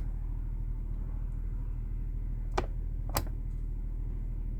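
Steady low drone of the Cummins Onan 7.5 kW Quiet Diesel generator running. Two sharp clicks from buttons being pressed on the coach's climate-control thermostat fall about half a second apart past the middle.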